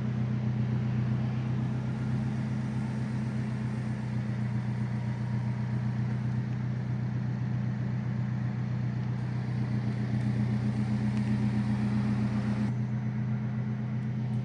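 Alfa Romeo 4C Spider's 1750 turbocharged four-cylinder engine idling steadily, its sound turning duller near the end.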